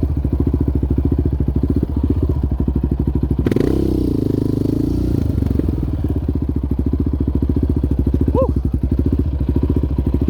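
Yamaha Raptor 700R's single-cylinder four-stroke engine running with a steady, rapid chain of low firing pulses. Its pitch dips and rises briefly about three and a half seconds in.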